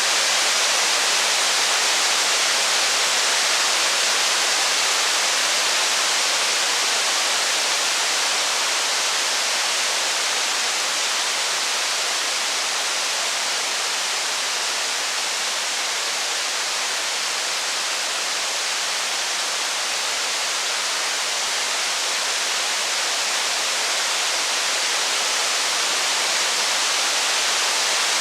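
Steady rain, a dense even hiss that eases a little around the middle and builds back near the end.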